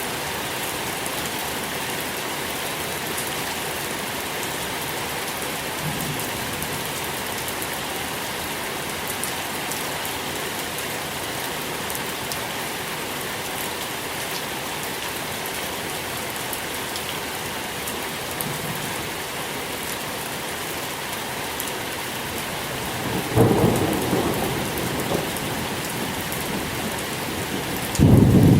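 Steady rain falling, an even hiss throughout. Near the end, a low rumble of thunder swells and fades, and a second, louder rumble begins just before the end.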